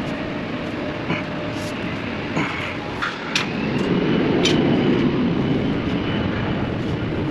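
Steady rumble of running machinery with several sharp metallic clicks and clanks, typical of tools working on hose fittings; the rumble swells about four seconds in.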